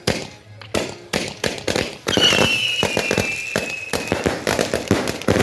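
Fireworks going off: sharp firecracker bangs in quick irregular succession, then about two seconds in a dense crackling starts, with a high whistle that slowly falls in pitch for about two seconds.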